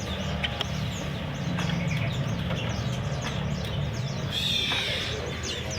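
Many caged songbirds chirping and calling at once, with one louder trill about four and a half seconds in, over a steady low hum.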